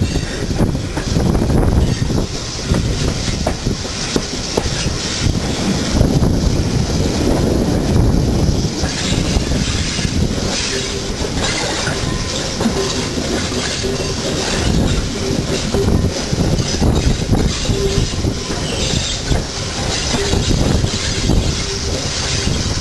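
Steam-hauled train running along the line, its wheels rumbling and clattering on the rails, with heavy wind buffeting on the microphone. From about halfway through, a faint steady squeal comes in as the wheels take a curve.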